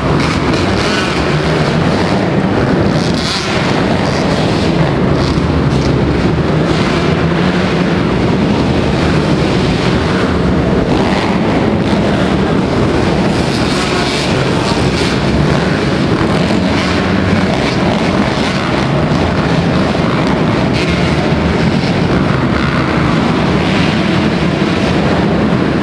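Motocross motorcycle engine noise, loud and continuous, with wind noise on the microphone.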